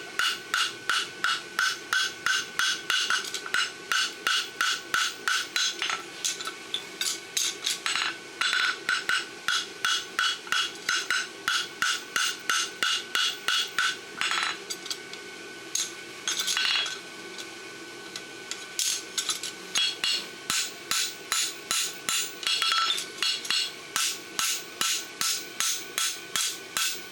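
Farrier's hand hammer striking a hot steel horseshoe on the horn of the anvil, in quick blows about three a second with a ringing tone from the anvil. It pauses briefly a few times between runs of blows, as the shoe's section is cleaned up.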